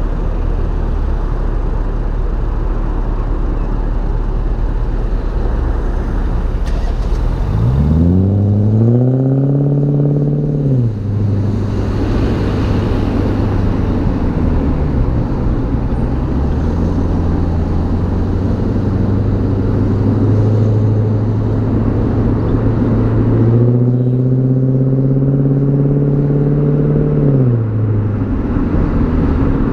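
BMW E39 540i's 4.4-litre V8 exhaust note heard from behind the car while driving. It cruises steadily over road noise, then the revs climb under acceleration about eight seconds in and drop back. Around three-quarters of the way through the revs climb and hold again before easing off.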